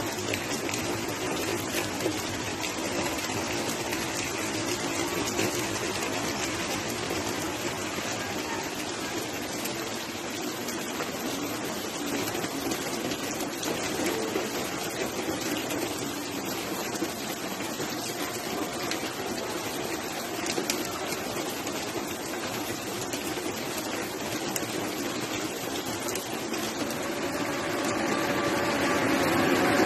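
Steady rain falling, an even hiss of water with scattered drips. A louder, lower sound builds in over the last few seconds.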